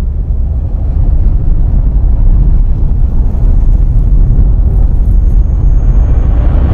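Race car engines running loud and steady, a continuous low rumble, as in a film's racing sound effects.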